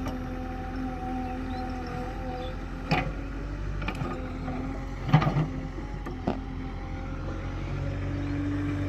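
Tractor engine running steadily, with a few sharp knocks and clanks, and the engine getting louder near the end.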